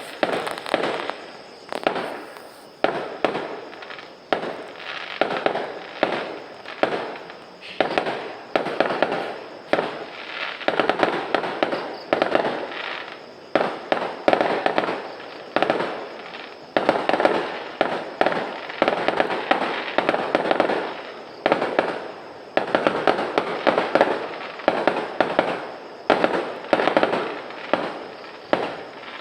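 Fireworks going off in rapid succession: a steady run of sharp bangs, about one or two a second, each trailing off before the next.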